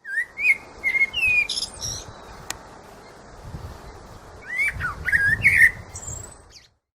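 Blackbird singing: two phrases of fluting whistled notes with higher squeaky notes, one at the start and one from about four and a half seconds in, over a steady outdoor hiss.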